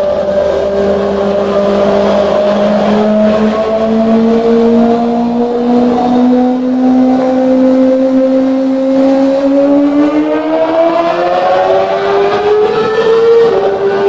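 Kawasaki ZX25R's 250 cc inline-four running through an aftermarket exhaust, held at high revs with a steady, slowly rising pitch. The revs climb more steeply late on, with a brief dip near the end.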